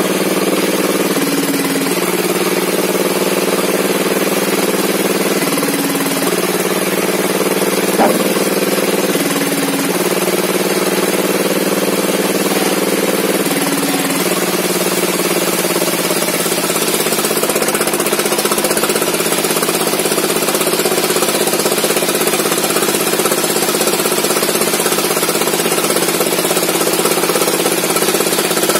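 Small petrol engine of a log-cutting saw running steadily, its pitch briefly stepping down and back up every four seconds or so, as a saw engine does when the cut loads it, then holding steadier for the second half. A single sharp click about eight seconds in.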